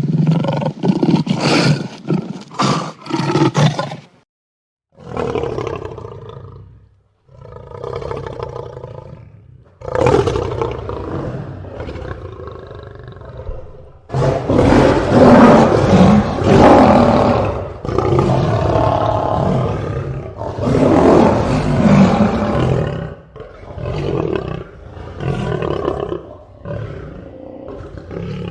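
Lion roaring: a series of roars, the longest and loudest around the middle, trailing off into shorter grunts about once a second near the end.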